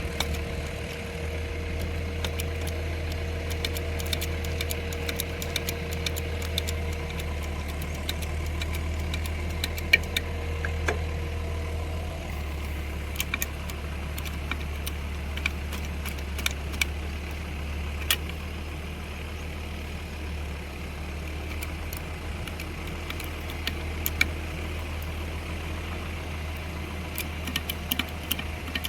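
A heavy machine's engine idling steadily with a low hum. Its note drops slightly partway through, and scattered light clicks and rattles sound over it.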